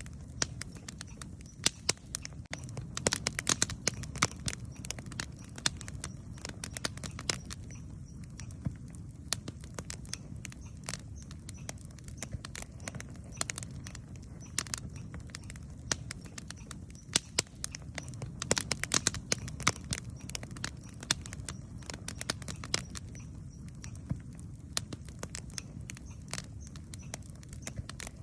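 Wood campfire crackling and popping: irregular sharp snaps over a steady low rush of the burning fire, with thicker runs of crackles about three seconds in and again around eighteen to twenty seconds.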